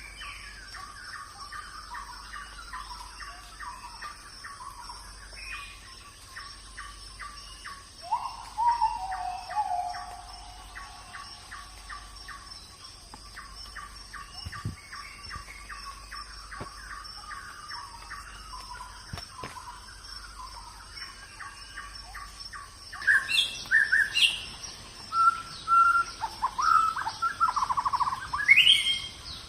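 Wild birds calling: quick runs of short repeated chirps, a louder drawn-out call about eight seconds in, and loud, varied calls through the last six seconds. A steady high insect buzz runs underneath.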